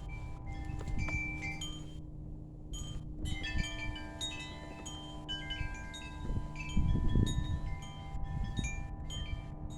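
Wind chimes ringing irregularly, many short overlapping metallic notes, over a steady low hum; a louder low rumble comes about seven seconds in.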